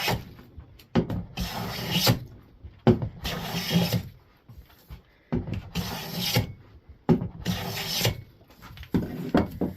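Hand plane shaving along a board's edge in repeated strokes, each a rasping pass of about a second with short pauses between, about five in all. The passes are taking down a corner that is still high, to bring the edge square for an edge joint.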